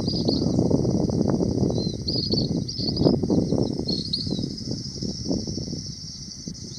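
Ashy minivets giving short, high trilled calls several times, over a louder irregular low rumble.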